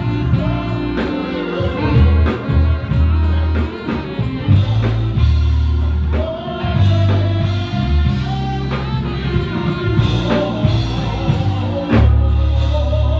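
Live gospel music with singing, a bass line and drums playing.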